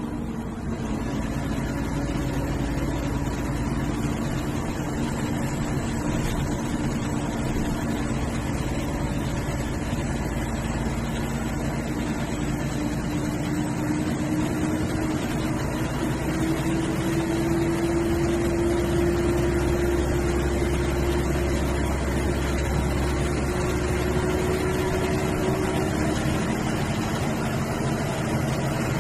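MSRTC bus diesel engine running under way with steady road noise, its engine note climbing slowly through the second half as the bus speeds up.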